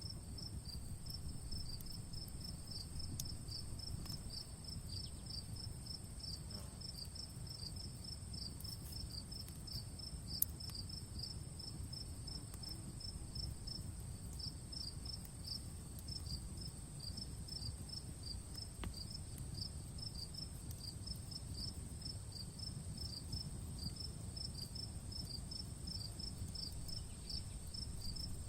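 Crickets chirping steadily, a few regular chirps a second, over a continuous high insect trill. Faint crackles from a wood fire are scattered through, with one sharper pop about ten seconds in.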